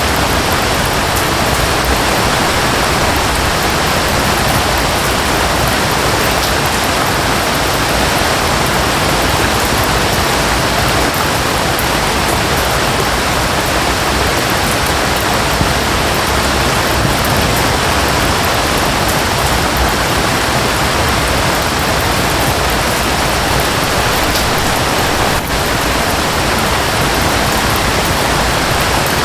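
Steady rushing noise of a waterfall blended with falling rain, even and unbroken throughout.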